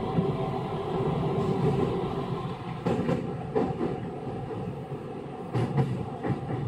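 Running sound heard inside a refurbished Osaka Metro 66 series train: steady rolling noise. Wheels click over rail joints a few times, about three seconds in and again near the end.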